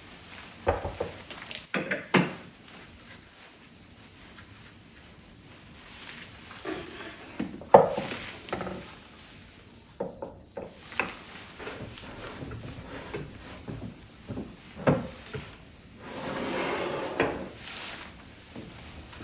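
Household handling sounds in a small room: scattered knocks and clicks of wooden things being moved, set down and opened or shut, with a longer rubbing or rustling stretch near the end.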